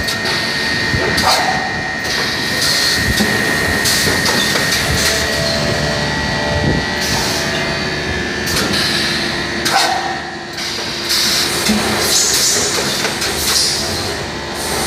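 Vacuum packaging machine for white cheese running, with a steady hum and a high whine under it. A short stroke of hiss and clatter comes every second or two as it cycles.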